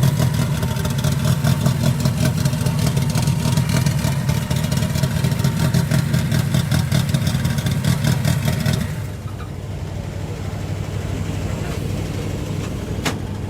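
A car engine running close by with a fast, even exhaust pulse, then dropping off sharply about nine seconds in to a quieter, lower rumble.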